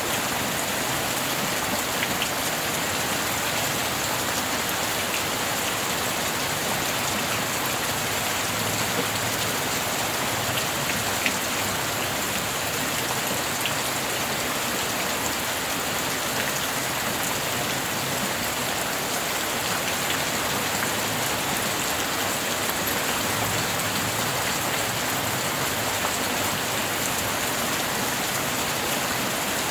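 Steady rain falling without let-up, a dense even hiss with a few single drops ticking now and then.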